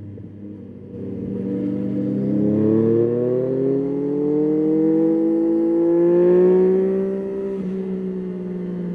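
Yamaha Tracer 9's three-cylinder engine pulling steadily up through the revs under acceleration, with a drop in pitch about seven and a half seconds in as it shifts up, then running on at steady revs.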